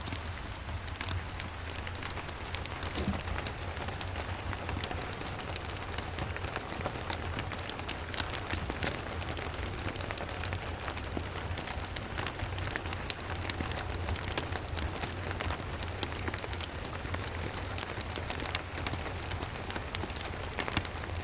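Steady rain mixed with a crackling log fire: an even hiss with many small sharp ticks throughout, over a steady low rumble.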